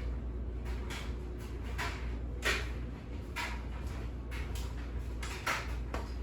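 Household handling noises: several short, irregular rustles and knocks of things being moved about, over a steady low hum.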